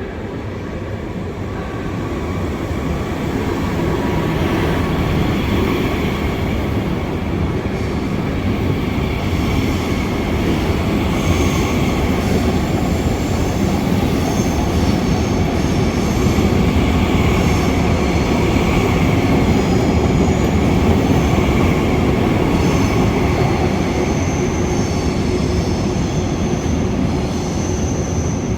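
High-speed train moving along the platform: a loud rumble that builds over the first few seconds and then holds, with high wheel or brake squeals coming and going through the second half.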